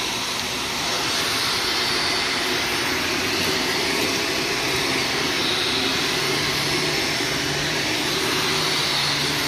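Vacuum cleaner running steadily while pre-vacuuming carpet, getting slightly louder under a second in.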